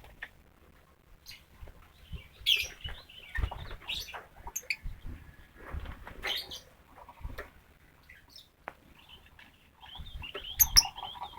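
Lovebirds in a wire-mesh cage, giving scattered short chirps and calls among wing flutters and light knocks. The chirping grows busier near the end.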